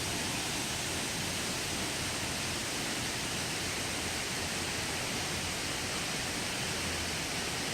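Waterfall water rushing steadily, an even unbroken noise.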